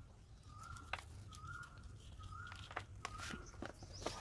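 A bird repeating a short, level call note about once a second, with faint sharp clicks and snaps of a knife working through the snake plant's tangled roots.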